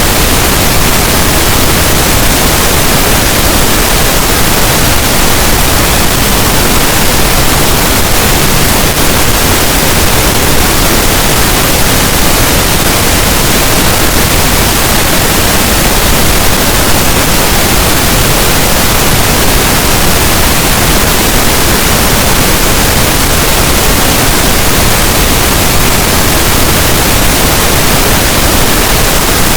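Steady pink noise: an even, unchanging hiss across all pitches, with no events or changes.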